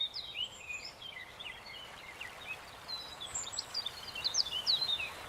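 Several small birds chirping and twittering in quick, overlapping short calls, over a soft steady hiss.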